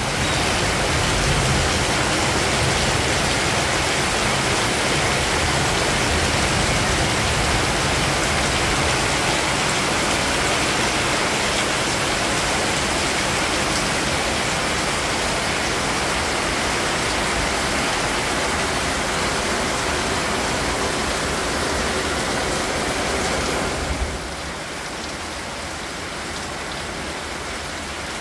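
Heavy rain pouring steadily: a dense, even hiss of downpour. About 24 seconds in it becomes noticeably quieter.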